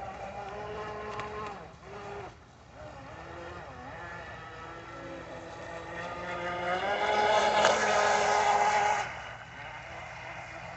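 Motor whine of a Kyosho Jet Stream radio-controlled electric boat running across a pond, its pitch shifting with the throttle. It dips briefly about two seconds in, grows louder from about six seconds to its loudest around eight, then drops sharply about nine seconds in as the throttle comes off.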